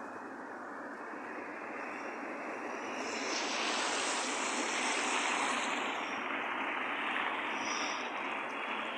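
Steady outdoor rushing noise that swells for a few seconds in the middle and then eases off, with a couple of faint, brief high chirps near the end.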